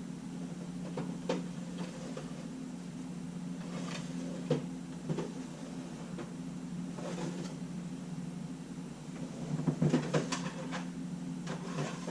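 Scattered light clicks and taps of small tools and camera parts being handled, thickest about ten seconds in, over a steady low hum.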